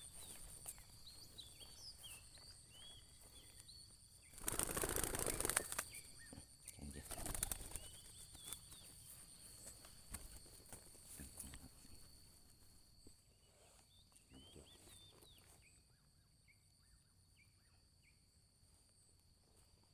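Small birds chirping in short, rising calls over a faint, steady, high-pitched insect drone, broken by a loud rustling burst about five seconds in and a shorter one a couple of seconds later.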